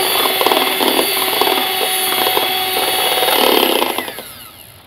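Electric hand mixer running at high speed, beating eggs for a cake batter into foam. About four seconds in it is switched off and the motor winds down with a falling whine.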